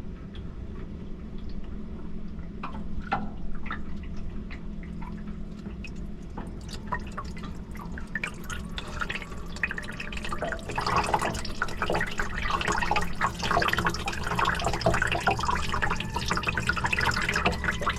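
Liquid being poured into a salt-blocked boat engine's cooling passages, dripping and trickling, heavier and busier from about ten seconds in, over a steady low hum.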